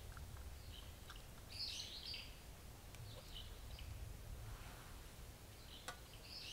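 Small birds chirping in short high phrases, about four times, over a faint low rumble; a single sharp click near the end.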